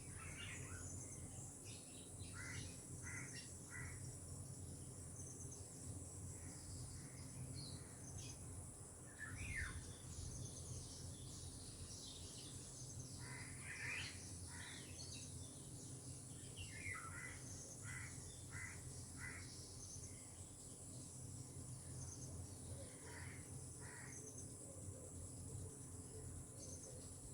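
Tropical birds calling in short, scattered notes, often in quick runs of two to four, over a steady high-pitched insect drone and a low background rumble.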